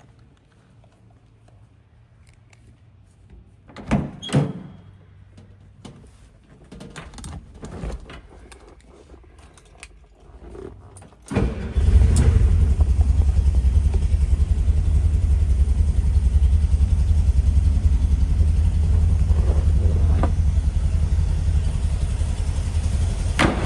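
A couple of knocks and a run of small clicks, then about eleven seconds in the 1963 VW Type 2's air-cooled flat-four engine fires on a cold start and settles into a steady, loud idle.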